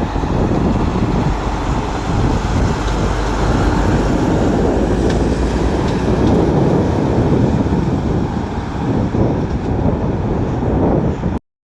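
Steady rumble of road traffic with heavy lorries, which cuts off abruptly for a moment near the end.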